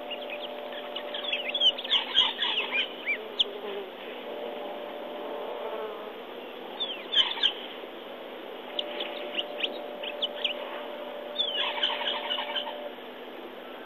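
Wild birds calling in the bush, in four short bursts of quick falling chirps, over a steady background hiss.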